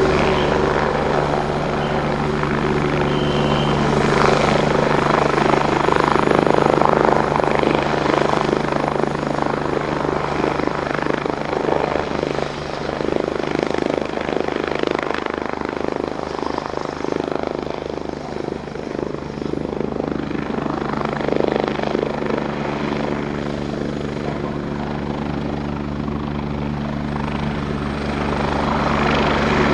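Kawasaki BK117 C-2 helicopter, its twin Turbomeca Arriel 1E2 turboshaft engines and four-bladed rotor running at flight power while hover taxiing and taking off: a steady turbine whine under a rapid rotor chop. It grows louder a few seconds in, eases in the middle and swells again near the end.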